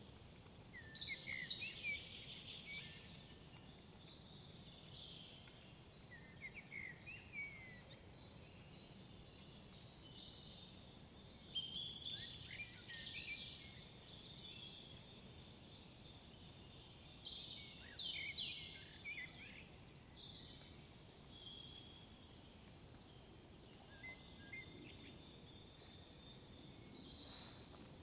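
Forest songbirds singing, one bird repeating a short song phrase that ends in a high trill about every five seconds, with other calls between, over faint low background noise.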